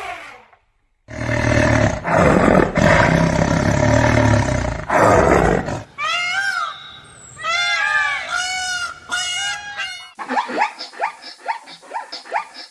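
A big cat roaring, deep and rough, for about five seconds. It is followed by a string of short pitched animal calls that rise and fall, and then by a quick run of brief calls.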